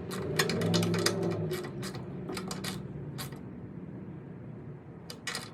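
A quick run of clicks and light clatter of parts being handled as an air cleaner is fitted onto a Predator 212 engine, with a few more clicks near the end; the engine is not running.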